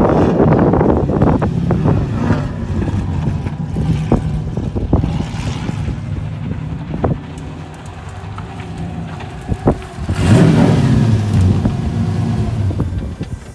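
LS1 V8 drift car engine revving hard as the car slides, loud at first, easing off, then surging again about ten seconds in.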